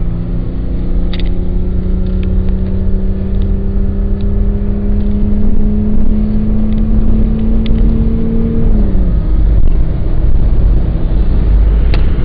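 Car engine under hard acceleration, heard from inside the cabin, its note climbing slowly and steadily for about nine seconds before falling away as the throttle comes off. Heavy road and wind rumble runs underneath.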